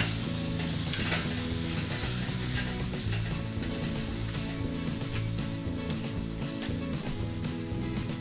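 Tri-tip steak sizzling steadily on a grill grate over open charcoal and wood flames, just turned over with grill tongs.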